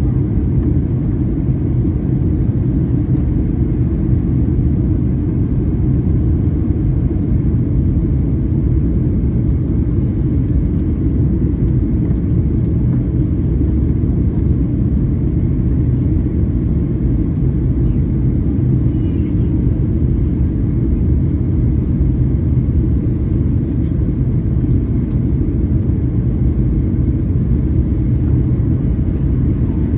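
Steady low rumble of an airliner in flight heard from inside the passenger cabin: jet engine and airflow noise with a constant hum, unchanging throughout.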